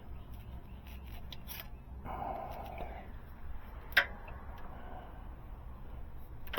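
Quiet hand-tool handling noises during engine work, with one sharp click about four seconds in.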